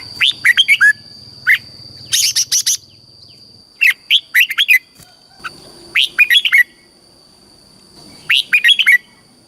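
Red-whiskered bulbul singing: short phrases of quick, clear whistled notes, repeated every second or two, over a steady high-pitched tone.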